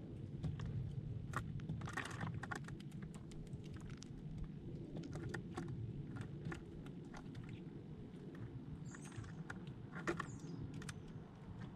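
Small birds pecking and scrabbling on a hard surface: many sharp, irregular taps and clicks over a low steady rumble, with a brief high chirp about nine seconds in.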